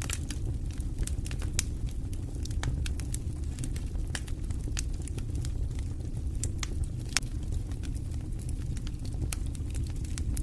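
Wood fire crackling in a fireplace: irregular sharp pops and snaps, a few each second, over a steady low rumble of burning.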